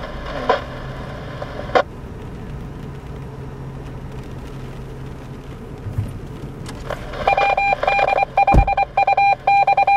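Amateur two-way radio with a steady low hum, then from about seven seconds in a quick run of electronic beeps on one pitch, switching on and off irregularly for about three and a half seconds.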